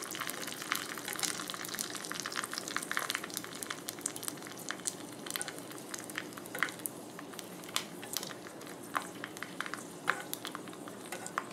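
Pork skins (rind pellets) frying in hot grease: a steady sizzle with many small sharp crackles, which grow sparser in the second half.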